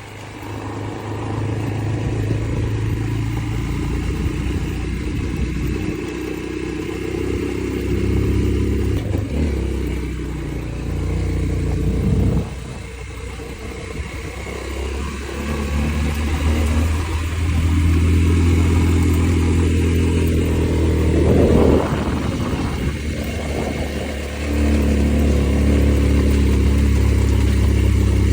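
A vehicle engine running under way, its pitch and loudness shifting several times as the speed changes.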